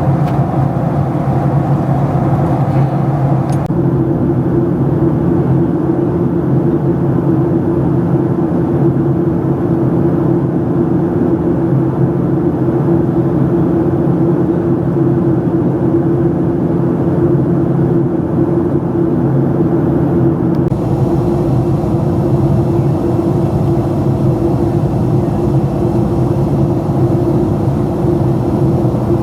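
Cabin noise of a Boeing 737-700 in flight: the steady drone of its CFM56-7B jet engines and the airflow, with a low hum running through it. The tone shifts slightly about four seconds in and again about two-thirds of the way through.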